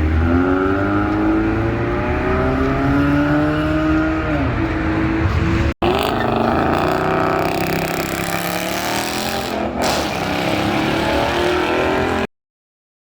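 A car engine accelerating hard, its pitch climbing steadily, dropping once about four seconds in as it shifts, then climbing again. The sound drops out for an instant near the middle and cuts off suddenly near the end.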